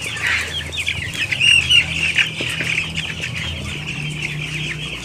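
A shed full of young chickens, about 15 days old, cheeping densely and continuously in many overlapping short high calls, over a steady low hum.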